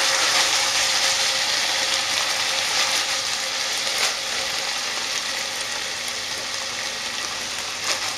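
Diced chicken sizzling in hot olive oil in a pan over high heat, with light crackles as the pan is shaken to sauté the pieces. The sizzle eases slightly toward the end.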